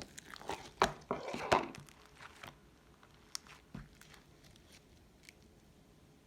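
Slime being handled and squeezed, giving a dense run of crinkling, crackling clicks for about two and a half seconds, then a few scattered clicks.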